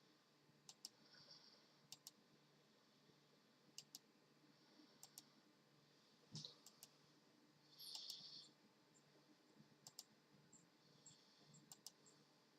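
Near silence with scattered faint sharp clicks, several in quick pairs, and a short hiss about eight seconds in.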